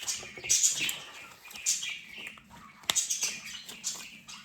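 Rustling and handling noise from plastic toy figures being picked up and shown, in irregular scratchy bursts, with one sharp click about three seconds in.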